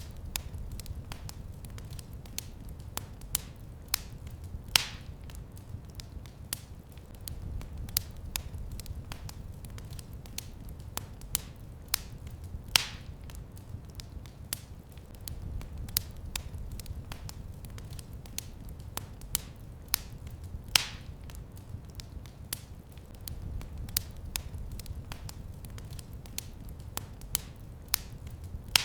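Wood fire burning in a fireplace: dense crackling with small sharp snaps over a soft low rumble of the flames, and a louder pop about every eight seconds, three times.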